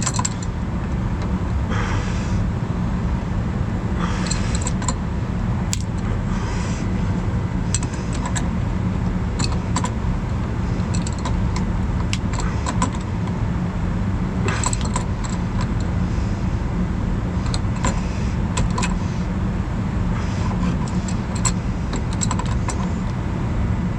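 Keys jingling and small metal clicks and scrapes as an ignition key lock is fitted and tightened into a truck dash, over a steady low mechanical hum.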